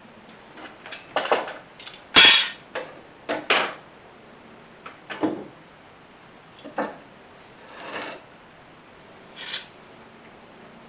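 Irregular knocks, clinks and scrapes of parts and tools being handled, the loudest knock about two seconds in.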